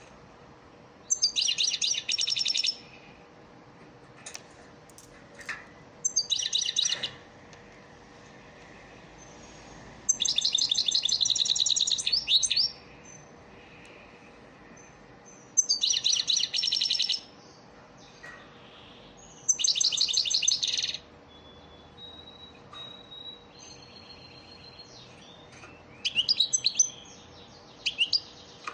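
European goldfinch singing in repeated bursts of fast, tinkling twitter, six phrases of one to two seconds each with short pauses between, as played for teaching young goldfinches their song.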